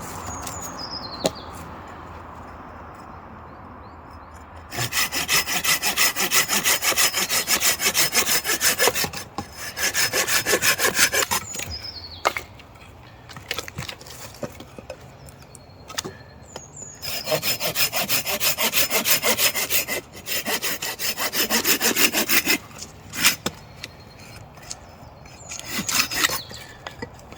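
Silky folding pruning saw cutting through wood in several bouts of quick back-and-forth strokes, with short pauses between the bouts.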